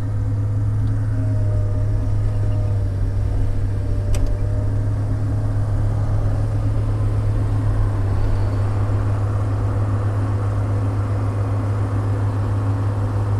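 Diesel engine running steadily, a continuous low drone heard from inside a truck cab, with a single faint click about four seconds in.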